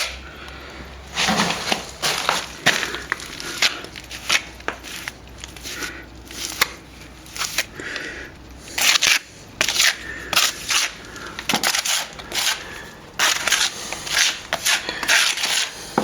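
A plastering tool working a gritty mix of sand and stopping plaster into a wall crack, in repeated short scraping strokes that come in uneven runs.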